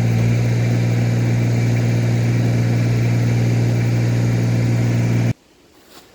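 Tractor engine running steadily at idle. It cuts off suddenly about five seconds in, leaving only faint background.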